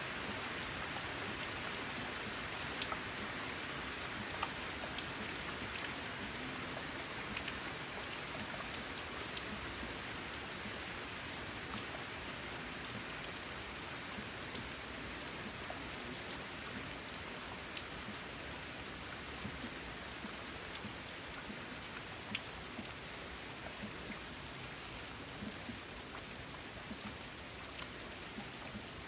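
Steady rain falling on a corrugated metal (zinc) sheet roof, an even hiss with individual drops ticking sharply now and then.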